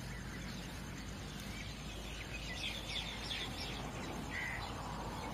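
Outdoor ambience: a steady background hiss with a few short bird chirps, clustered from about two and a half to four and a half seconds in.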